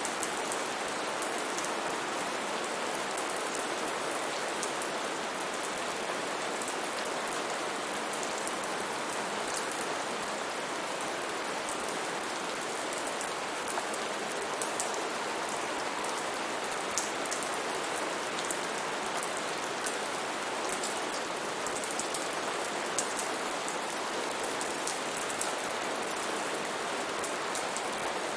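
Steady rain falling, an even hiss with many small drop impacts pattering through it.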